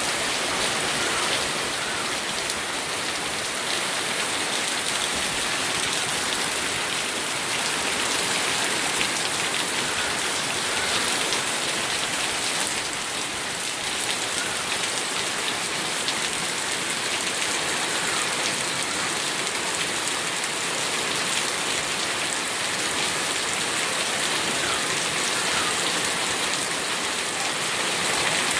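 Steady rain falling and pattering on surfaces, an even hiss with scattered drop impacts.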